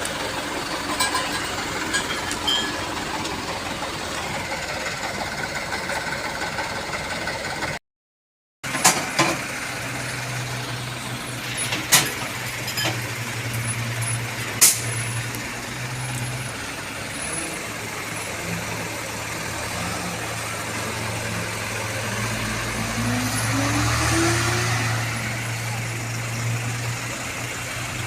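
Truck engine running steadily, with a few sharp knocks in the middle and a brief rising engine note near the end.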